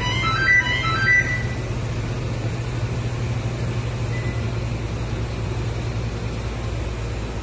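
2006 Infiniti FX45's 4.5-litre V8 idling steadily after a remote start. In the first second and a half, a short electronic melody of rising beeps plays twice.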